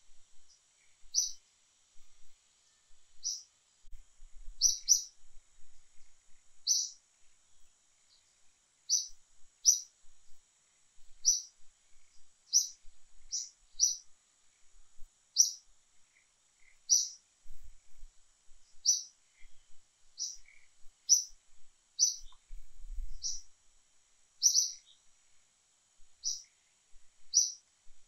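A small bird calling with short, high chirps, repeated at uneven intervals of about a second or two, over a faint steady high hiss.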